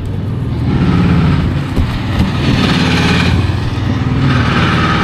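A vehicle engine running steadily at low revs, with a hiss that swells and fades in the middle.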